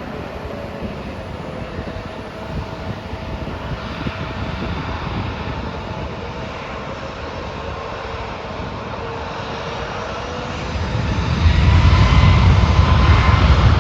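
Airliner engines running, a steady drone that grows much louder with a deep rumble near the end as the aircraft comes closer.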